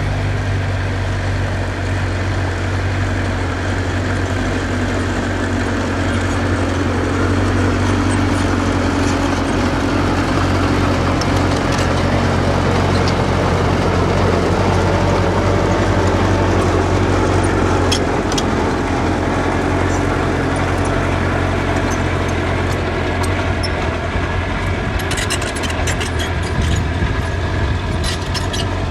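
Diesel engine of earthmoving machinery running steadily under load, with a deep low hum that swells a little midway. Scattered short metallic clanks come through around the middle and more often near the end.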